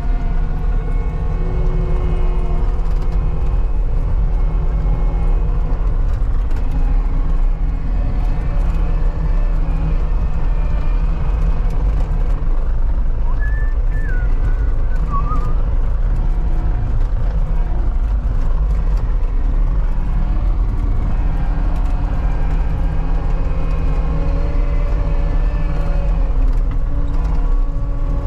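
CAT 279D compact track loader's diesel engine running steadily under load while it pushes dirt, a constant low drone whose pitch shifts slightly up and down as the load changes.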